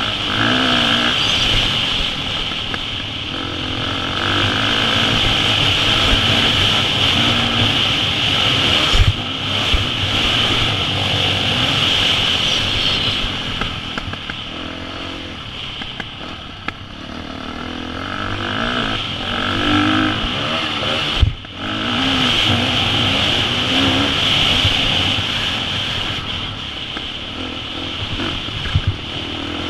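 KTM 350 SX-F single-cylinder four-stroke motocross engine under riding load, its pitch rising and falling again and again as the throttle is opened and closed. A few sharp knocks sound over it, about nine seconds in, about twenty-one seconds in and near the end.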